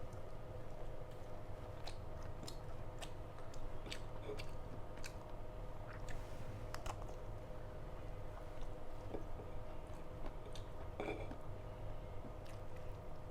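A person chewing a mouthful from a meal of mutton curry, rice and roti, with scattered small mouth clicks and smacks over a steady low background hum.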